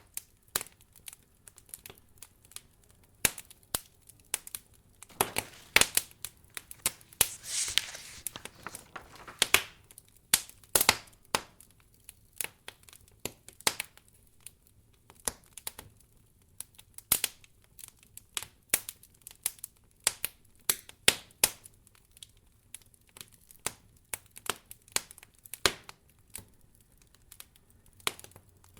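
Wood fire crackling in a fireplace: irregular sharp pops and snaps, some clustered, with a brief hissing swell about seven seconds in.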